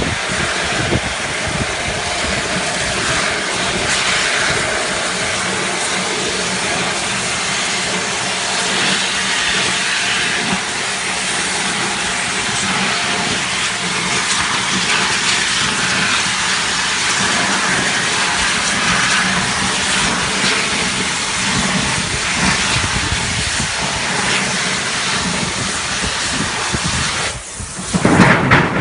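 Oxy-fuel gas torch flame hissing steadily, with a light crackle. Near the end the sound dips briefly, then comes back louder.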